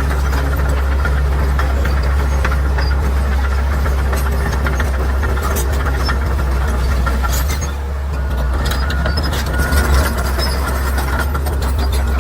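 Bulldozer's diesel engine running with a steady, heavy low drone, over scattered sharp clicks and cracks. The engine eases briefly about eight seconds in, then picks up again.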